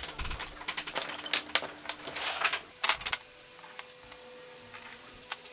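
A quick run of clattering clicks and knocks for about three seconds, then a faint steady hum.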